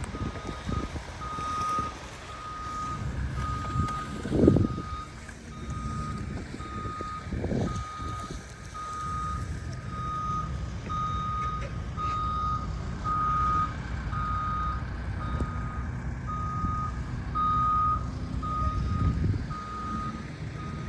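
A vehicle's reversing alarm beeping steadily, about once a second, over a low rumble. A loud knock about four seconds in.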